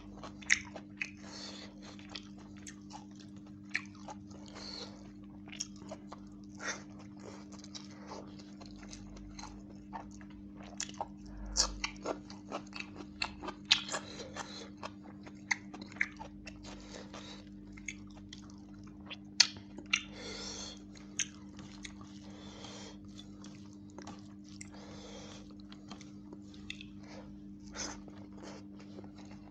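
Close-miked eating sounds: chewing and wet mouth smacking as a man eats rice and chicken by hand, with sharp crunches scattered irregularly throughout. A steady low hum runs underneath.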